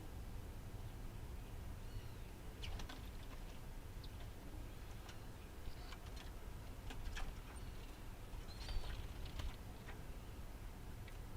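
Scattered faint bird chirps and short calls, a few of them brief arched notes, over a steady low rural background hum.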